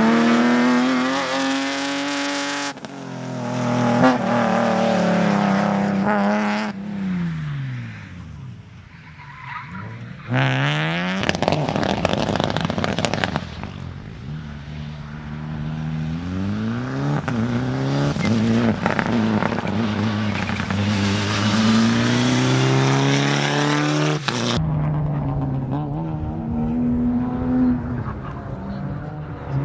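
Rally cars' engines revving hard on a slalom course, the pitch climbing and dropping steeply with throttle and gear changes. The sound cuts abruptly from one car to another several times.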